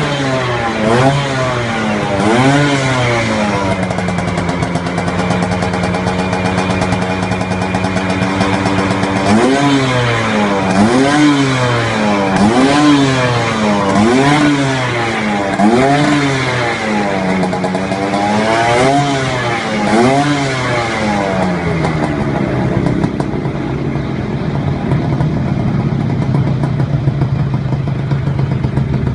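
Vespa PTS two-stroke scooter engine running through an aftermarket racing exhaust, revved in quick repeated blips, held at a steady higher rev for several seconds, blipped again about a dozen times, then dropping back to idle near the end.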